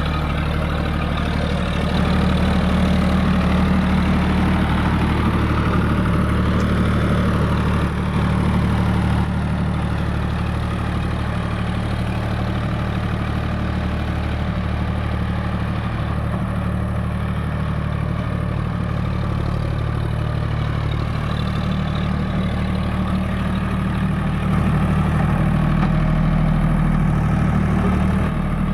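A John Deere 5050D tractor's three-cylinder diesel engine runs steadily. Its sound grows louder about two seconds in, eases off partway through, and swells again near the end.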